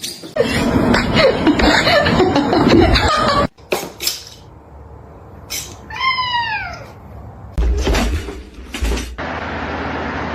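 A cat meows once, a single falling call about six seconds in. Before it comes a few seconds of loud, rough noise, and scattered clicks and another burst of noise follow.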